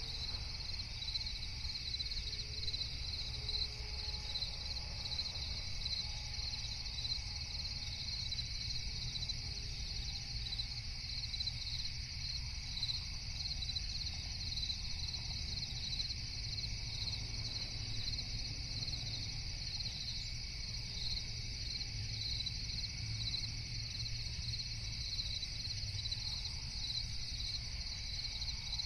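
Crickets chirping in a steady, unbroken rhythmic chorus over a low, even rumble.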